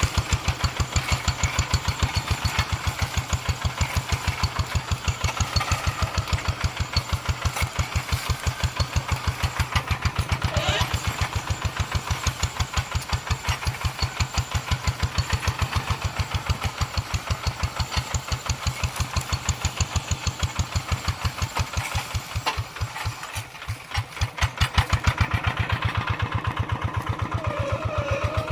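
Tractor engine running with a fast, even thumping beat. About two-thirds through, the beat falters and quietens for a couple of seconds, then picks up again louder.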